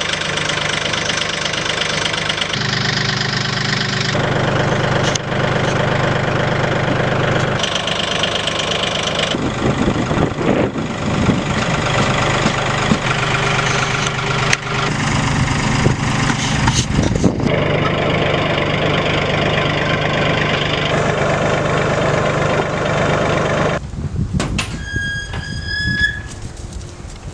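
A motor vehicle's engine running steadily, its pitch and tone jumping abruptly every few seconds. A short high whistle sounds near the end.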